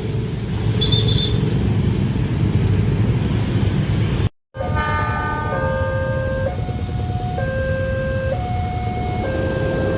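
Level crossing warning alarm sounding a repeating two-note tone, alternating about once a second, over a steady low rumble of traffic engines. The sound cuts out briefly about four seconds in.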